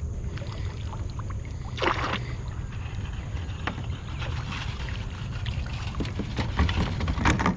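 Water splashing against a kayak, with a steady low rumble of wind on the microphone; one short splash about two seconds in, then a run of splashes and knocks near the end.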